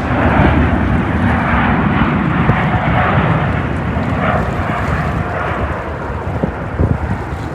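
Jet airliner's engines roaring as it passes close by. The roar swells in at the start and slowly eases over the last few seconds.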